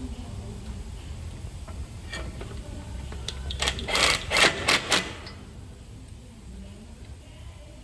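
Scattered clicks over a low hum, then a few short, loud bursts of mechanical clatter about halfway through.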